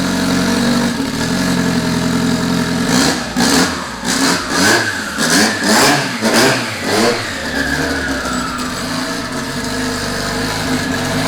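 Integra's B-series four-cylinder engine idling, then blipped about six times in quick succession a few seconds in before settling back to a steady idle.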